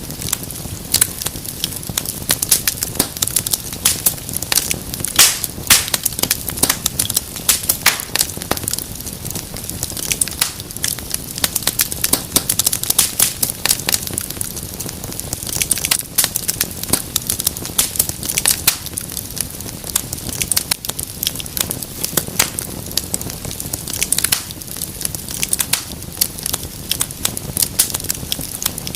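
Wood fire crackling in a fireplace: dense, irregular snaps and pops over a steady low rumble of burning.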